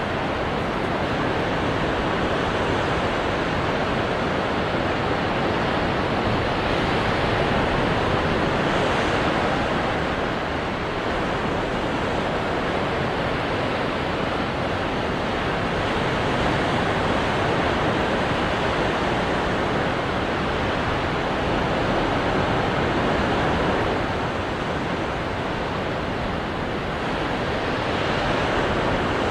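Ocean surf breaking on rocks: a continuous dense wash of water noise that swells and eases every several seconds as waves come in.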